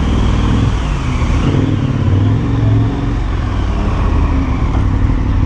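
Motorcycle engine running under way, its pitch shifting as it pulls away, over a steady rush of road and wind noise.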